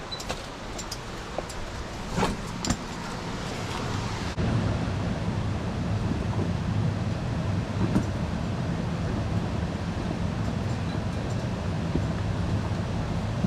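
Steady rushing of a mountain stream with wind buffeting the microphone, becoming louder and heavier about four seconds in. A few sharp clicks sound in the first three seconds.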